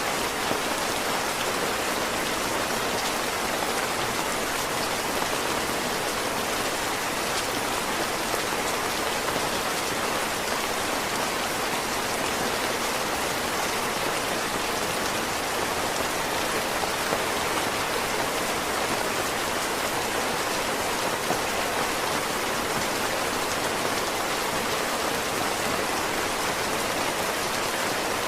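Heavy rain falling: a steady, even hiss of many drops that does not change.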